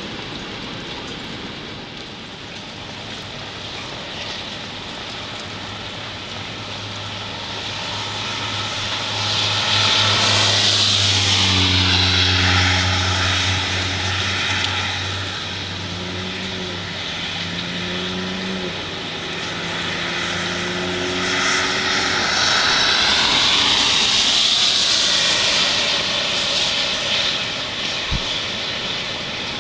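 Two vehicles passing one after the other on a wet road, tyre hiss swelling and fading each time, with a low engine hum under the first.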